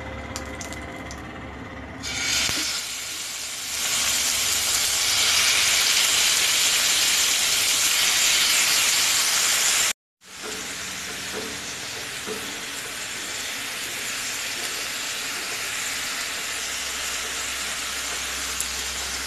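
Marinated chicken tikka skewers frying in hot oil in a frying pan: a loud sizzle starts suddenly about two seconds in as the meat meets the oil, then breaks off and carries on steadier and quieter.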